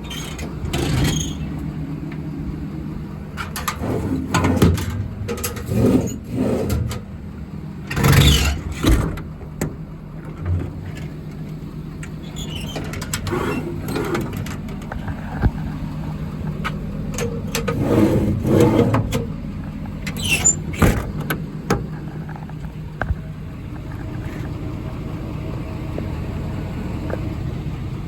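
A 6.7-litre Power Stroke V8 turbodiesel idling steadily in a Ford F550 truck, with irregular rustles and bumps close to the microphone at several points.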